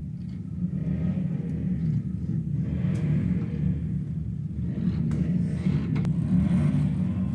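Motorcycle engines rumbling low and steady, getting louder about a second in.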